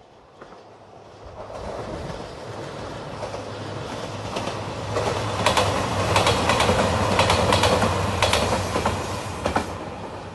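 JR Shikoku 2700 series diesel limited express passing close by. The rumble builds over the first few seconds, then a run of sharp wheel clicks over rail joints comes as the cars go past, and the sound fades near the end.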